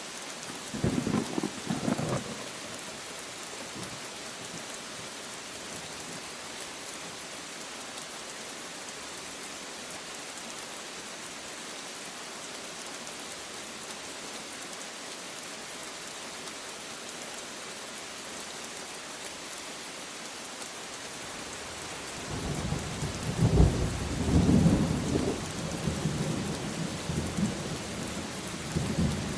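Steady heavy rain hissing, with a short thunder rumble about a second in and a longer, louder roll of thunder that starts near the end and keeps rumbling.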